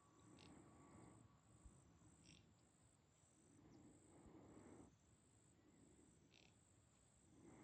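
Faint insect chirping: a high buzz pulsing about one and a half times a second. Soft swells of rustle-like noise come and go three times, each lasting about a second.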